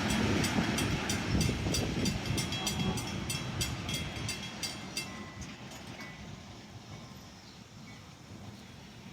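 Train hauled by an MP15AC diesel switcher rolling away, its wheels clacking quickly and evenly over the rail joints. The clacking and rumble fade out over the first six seconds or so.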